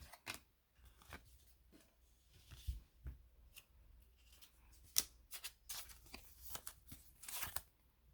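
Faint flicks and rustles of hockey trading cards being slid through the hands one after another, with scattered light clicks.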